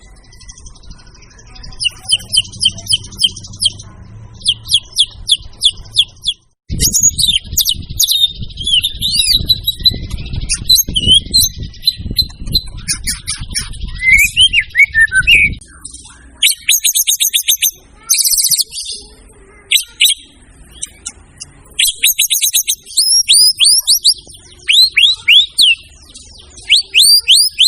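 White-rumped shama (murai batu) in full song: fast runs of sharp, downward-sweeping whistled notes and rattles in changing phrases, broken by short pauses. A low rumble sits under the song for several seconds in the middle.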